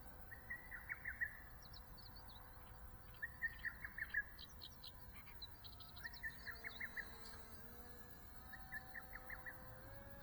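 Small birds singing: about four short phrases of rapid high chirps, a couple of seconds apart, with a faint steady hum underneath.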